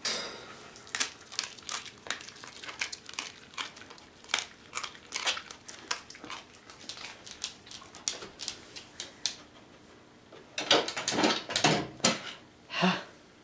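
A coyote handling something, making irregular crinkling, crackling clicks that come thickest for a couple of seconds near the end.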